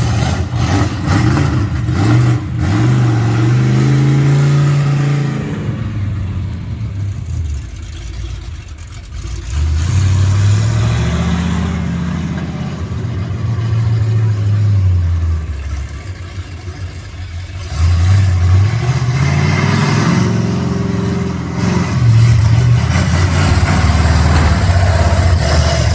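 Monster truck engine revving hard, rising and falling in pitch in three long surges with lulls between them.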